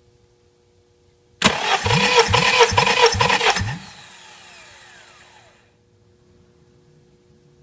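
Starter motor cranking a Honda D17A 1.7L four-cylinder engine for about two seconds, with an even chug of about two to three compression strokes a second, typical of cranking for a compression test. It cuts off sharply, then a falling whine fades as the starter spins down.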